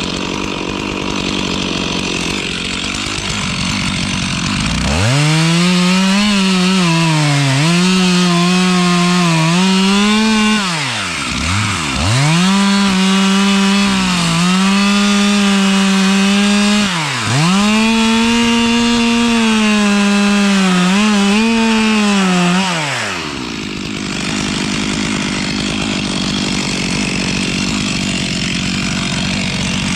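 Stihl chainsaw running low, then opened to full throttle about five seconds in and cutting dead spruce, the engine note sagging and recovering under load and twice dropping away briefly before coming back. It falls back to a low running sound about three-quarters of the way through.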